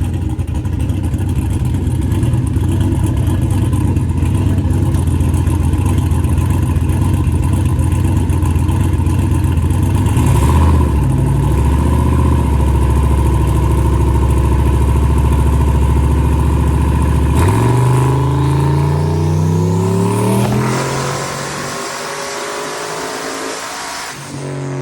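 Turbocharged 5.3-litre LS V8 running on a chassis dyno. It holds steady revs under load, then climbs in pitch with a rising turbo whine about three-quarters of the way in, and then drops back as the throttle comes off.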